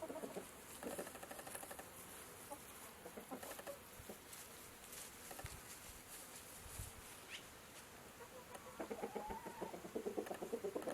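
Birds of a flock giving faint clucking, fowl-like calls at the start, then again more strongly near the end.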